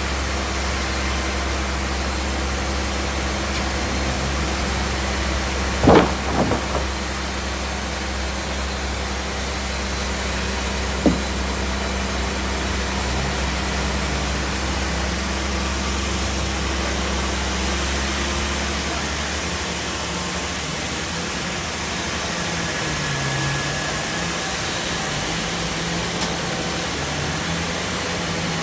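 Sawmill machinery running steadily, with a loud knock and short rattle about six seconds in and another sharp knock a few seconds later. The low hum of the machinery changes about two-thirds of the way through.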